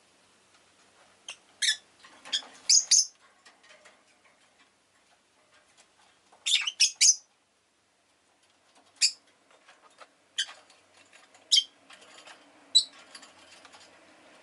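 Rosy-faced lovebird giving short, sharp, high-pitched chirps, some in quick runs of two to four and some single, with pauses of a second or more between them.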